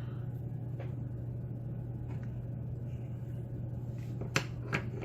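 A few small sharp metal clicks from a lock cylinder being worked with a shim to draw out the plug while disassembling it, two louder ones near the end, over a steady low hum.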